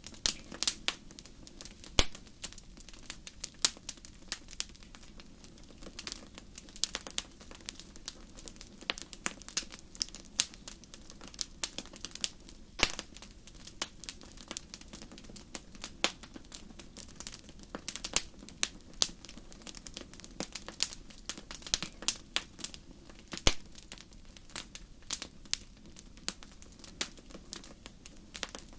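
Wood fire crackling in a fireplace: irregular sharp pops and snaps, several a second, over a steady low hiss of the flames.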